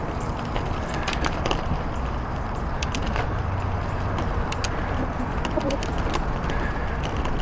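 Bicycle riding over a rough trail: steady wind and tyre noise with scattered sharp clicks and rattles from the bike.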